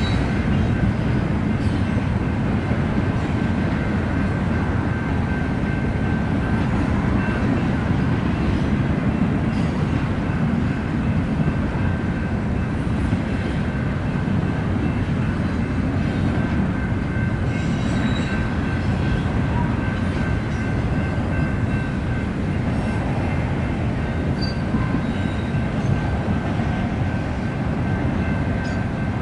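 Intermodal freight train cars rolling steadily past at a grade crossing: a continuous low rumble of wheels on rail, with a thin steady high tone above it.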